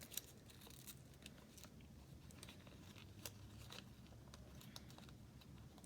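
Faint, sparse crinkling and small clicks of a sheet of origami paper being folded and creased by hand, over a low room hum.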